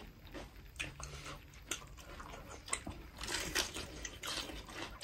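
People chewing and smacking their lips while eating by hand: a scatter of short, wet mouth clicks, busier about three seconds in.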